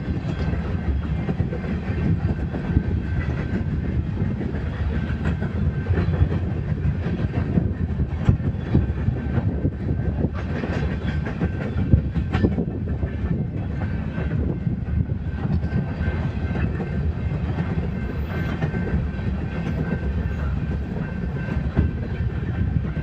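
Empty coal cars of a BNSF freight train rolling past, a steady rumble with frequent sharp clicks from the wheels running over rail joints.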